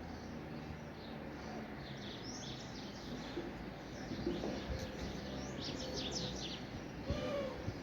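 Small birds chirping: scattered short, high chirps, with a quick run of them about six seconds in, over a steady low background rumble.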